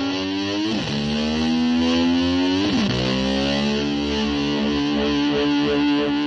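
Rock music without drums: a distorted electric guitar slides its pitch down and back up twice, then holds a sustained note.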